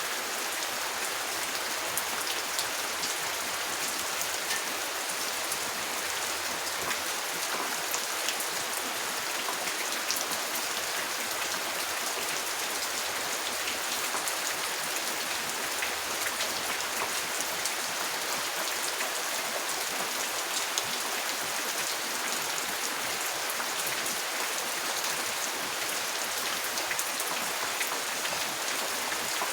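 Steady rain, an even hiss with many separate drops ticking through it.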